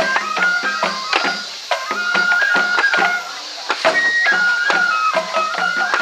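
Japanese festival music for a lion dance: a bamboo flute plays a melody of held notes, stepping between pitches, over quick, steady drum strokes.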